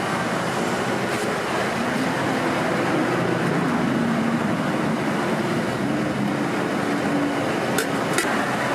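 Steady street background noise with traffic going by, with two short sharp clicks near the end.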